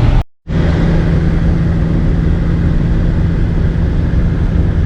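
Steady road and engine drone inside a vehicle's cab at highway speed, with a low hum running under the rumble. The sound cuts out completely for a split second just after the start, then resumes.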